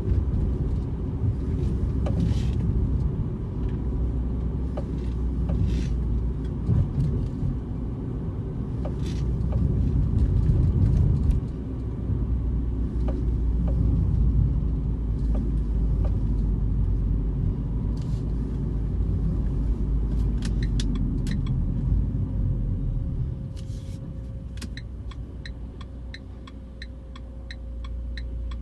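Renault Clio RS with a low, steady rumble, broken by sharp knocks here and there: the knocking sound the car is being shown for. Near the end the rumble drops and a regular quick ticking of about two to three per second sets in.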